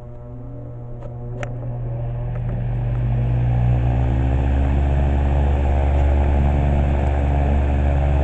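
Vintage Hunter table fan starting up on high: the motor hum rises in pitch and loudness over the first three seconds as the blades come up to speed. It then settles into a steady, loud, deep hum.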